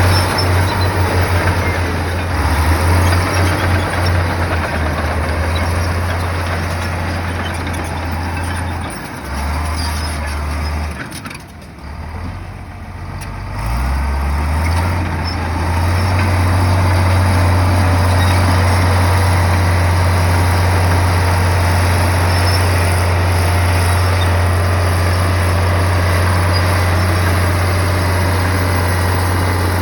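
Komatsu bulldozer's diesel engine running under changing throttle: it eases off and dips about a third of the way through, revs back up, then holds a steady loud drone.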